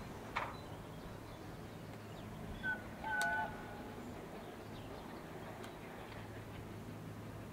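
Faint, steady low hum of distant approaching trains, with a brief high-pitched call of two short notes about three seconds in.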